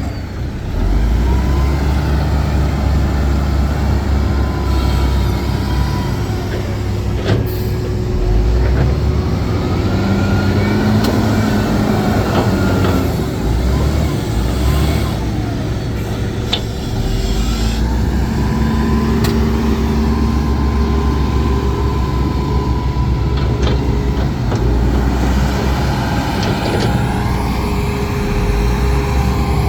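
Heavy diesel earthmoving machinery working: a big engine runs loud, its pitch rising and falling repeatedly as it is worked under load, with a few sharp knocks.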